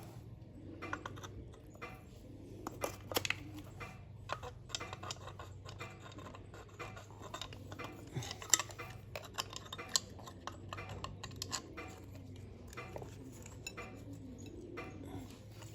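Irregular light metallic clinks and taps of tools and small metal parts being handled, the sharpest ones about 3 and 8½ seconds in, over a steady low hum.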